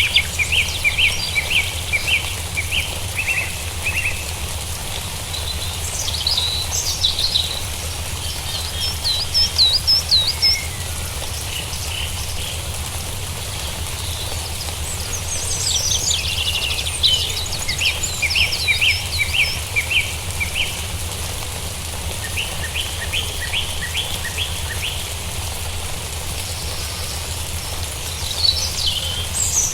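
Several wild birds calling in bouts of short, rapidly repeated chirps and whistled notes, some rising and falling, over a steady low background hum.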